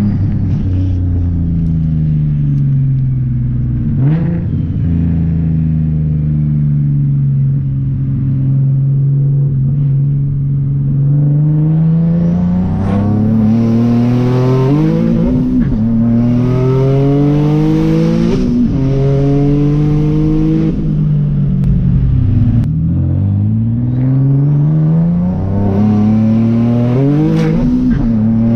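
Single-turbo Nissan 370Z's VQ37 V6 accelerating hard through several gears. Its pitch climbs, then drops at each shift, about half a dozen times in the second half, with a high turbo whistle rising during the pulls.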